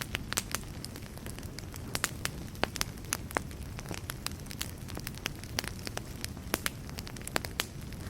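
Wood fire burning in a fireplace, crackling with frequent irregular sharp pops over a low, steady rumble of the flames.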